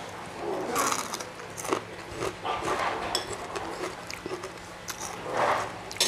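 Close-up sounds of people eating: biting and chewing food, with a few light clicks of a spoon and fork against plates.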